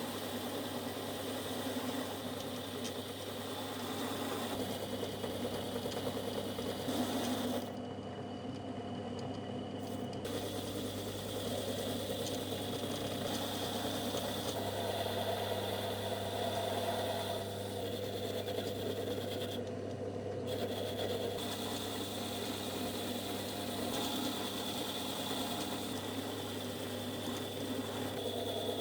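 A small electric power tool running steadily with a constant motor hum. The high hiss drops out briefly twice.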